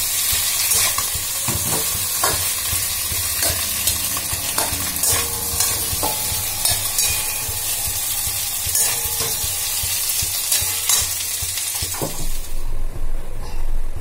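Potato cubes sizzling in hot mustard oil in a kadai, with a spatula scraping and knocking against the pan as they are stirred. The sizzling stops about twelve seconds in.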